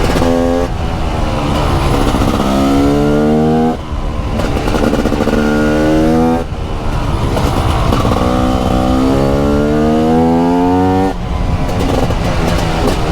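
TM SMR 300 supermoto's 300cc single-cylinder two-stroke engine under hard acceleration. Its pitch climbs steadily, then drops back sharply, four times.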